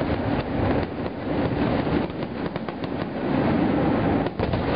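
Aerial fireworks bursting in quick succession, a dense unbroken run of bangs with sharp crackles over it, and a cluster of cracks just after four seconds.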